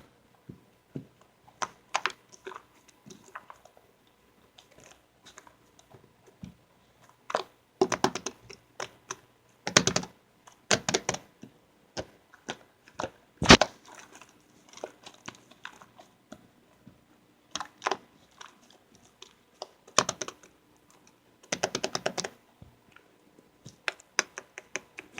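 Slime being squeezed and poked by hand, giving bursts of rapid crackling clicks and small pops. Several louder bursts come through, the loudest about halfway.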